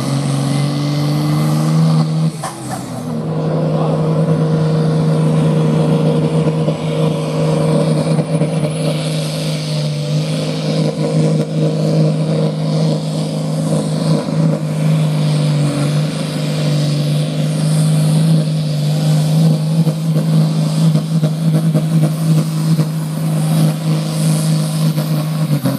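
A pulling vehicle's engine running loud at high, steady revs under load, dipping briefly about two seconds in before holding steady again.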